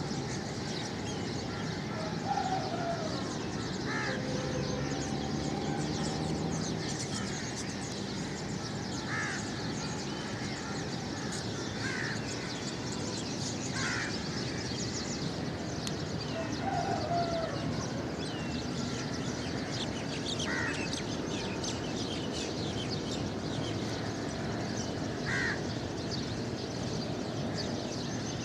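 A flock of many birds calling at once in a continuous chattering din. Short, louder single calls stand out over it every few seconds.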